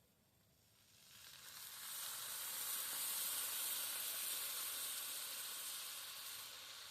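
Sausages sizzling over a campfire: a frying hiss that swells about a second in and slowly dies down toward the end.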